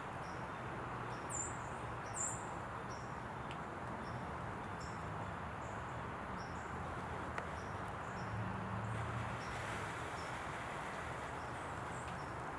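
Quiet outdoor ambience: a steady hiss with a short high chirp repeating about twice a second, and two brighter chirps near the start.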